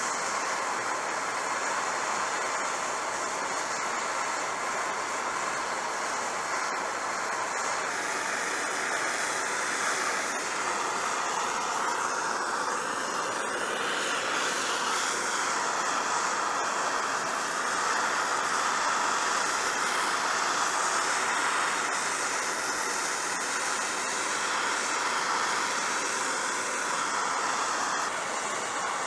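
Handheld torch flame burning with a steady rushing hiss, held to wet sweet gum wood to scorch it dark.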